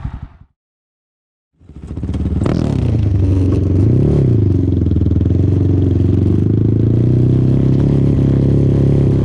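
A quad's engine running steadily after a brief dead-silent gap near the start, with one short rise and fall in engine speed about four seconds in.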